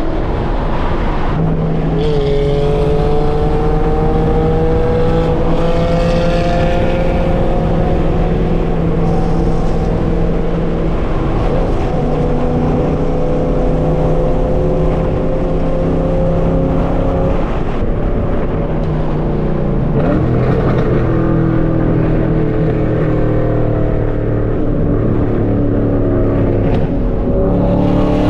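Straight-piped 5th-gen Camaro SS V8 exhaust under way, its note climbing slowly in pitch as the car pulls, then dropping lower about twenty seconds in before climbing again.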